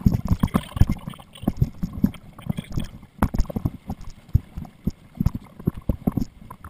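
Open Canadian canoe being paddled hard: a quick, irregular run of knocks and splashes from paddle strokes in the water and against the hull, picked up by a GoPro on the boat.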